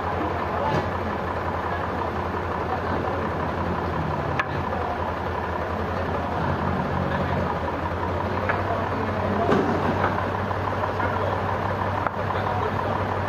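Sawmill machinery running with a steady low engine drone and a few light knocks.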